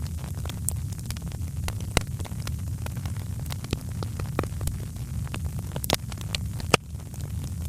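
Wood fire crackling in a fireplace: scattered sharp pops and snaps over a steady low rumble, with a louder pop near the end.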